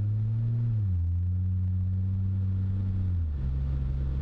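Inside the cabin, the Ford Fusion Sport's 2.7-litre EcoBoost V6 hums steadily through a Magnaflow axle-back exhaust with both factory resonators deleted, over road noise. The engine note steps down in pitch twice, about a second in and again past three seconds.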